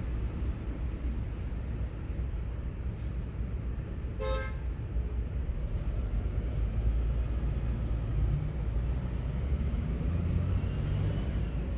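A single short horn toot about four seconds in, over a steady low rumble that swells near the end.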